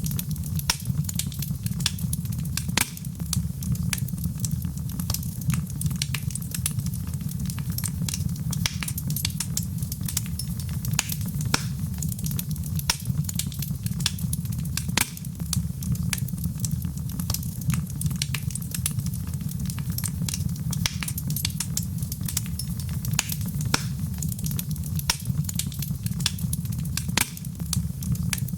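Fire in a fireplace crackling, with frequent sharp pops and snaps over a steady low rumble.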